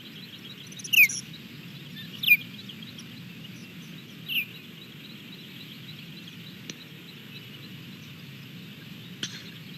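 Birds calling: three short, loud, downward-sliding calls, about a second in, at two seconds and at four seconds. Fainter high chirps and a steady low background noise run under them.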